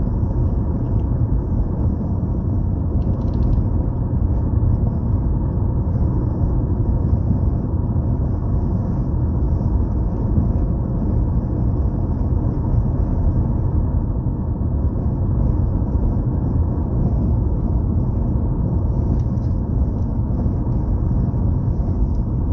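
Steady road and engine noise of a moving car heard from inside the cabin, a constant low rumble.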